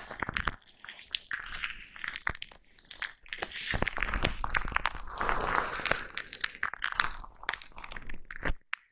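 Foam brush rubbed and scrubbed against a microphone, giving close-up crackly, crunching scratches in uneven strokes with sharp clicks. It stops briefly just before the end.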